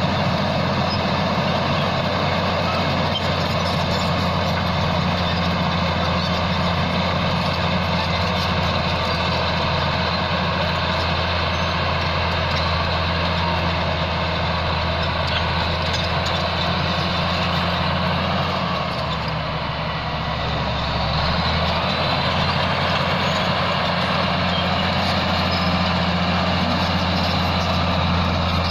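Bulldozer's diesel engine running steadily under test, easing off briefly about two-thirds of the way through before picking up again.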